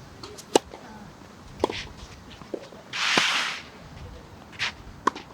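Tennis balls struck by rackets and bouncing on the court in a rally: sharp pops about a second or more apart, with a short hiss about three seconds in.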